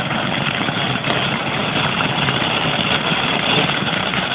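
A firework burning with a steady, unbroken rushing hiss.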